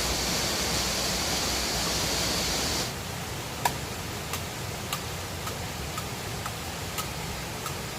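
Steady rush of river water, which cuts off abruptly about three seconds in to a quieter hiss with light, sharp clicks about twice a second.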